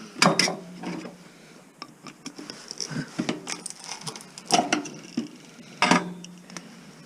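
Metal clanking and scraping as a copper transformer winding is worked out of its steel core laminations, where it is stuck. Scattered small clicks, with three sharp ringing knocks: one just after the start and two close together in the last third.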